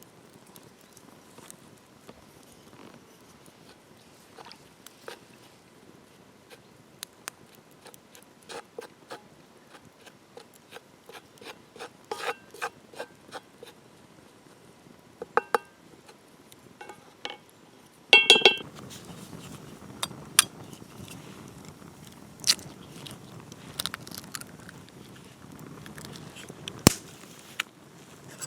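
Irregular clicks, taps and scrapes of cooking utensils and dishes being handled during food preparation. There is a short ringing clink about 15 seconds in and a louder one about 18 seconds in, after which a steady background noise sets in with a few sharp clicks.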